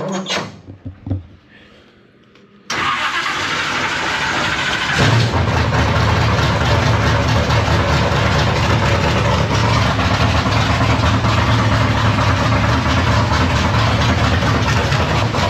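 Street Stock Monte Carlo race car's engine being started after a few faint clicks: it comes in suddenly about three seconds in, builds a couple of seconds later, then runs steadily and loudly. It is being run to circulate freshly changed oil and to bleed air out of the cooling system.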